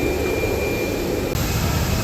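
Steady jet airliner engine noise with a thin, steady high whine. The sound changes abruptly about a second and a half in, as at a cut.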